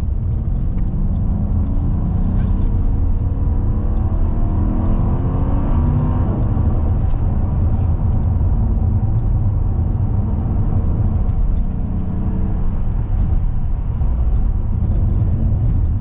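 Mercedes-AMG E63 (W212) twin-turbo V8 heard from inside the cabin while driving, over heavy low road rumble. The engine note rises under acceleration from about a second in to about six seconds in, then settles to a steadier drone.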